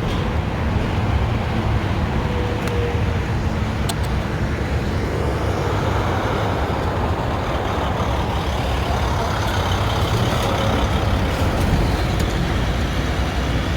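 Steady low rumble of a motor vehicle with road noise, unchanging throughout.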